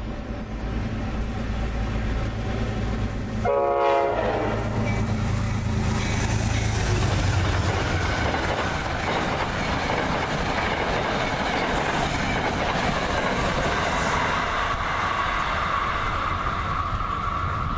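A Metro-North GE P32AC-DM locomotive sounds one short blast of its K5LA horn about three and a half seconds in, then its train of Shoreliner coaches rushes past with a steady clickety-clack of wheels over the rail joints. A steady high tone comes in over the passing train near the end.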